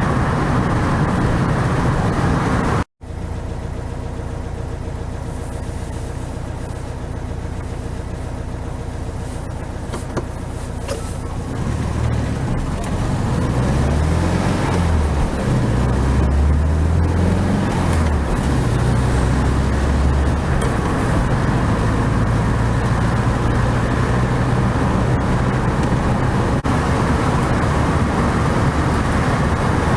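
Air-cooled flat-four engine of a 1969 VW 1500 Beetle running on the road, with tyre and road noise. There is a brief break about three seconds in, and from about twelve seconds the engine note grows louder and its pitch rises and falls.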